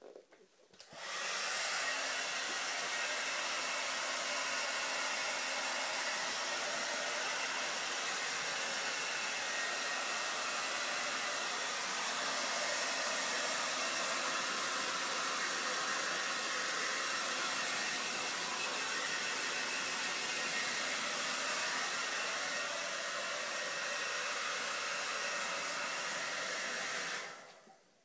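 Hair dryer running steadily: a constant rush of air with a faint whine. It switches on about a second in and shuts off near the end.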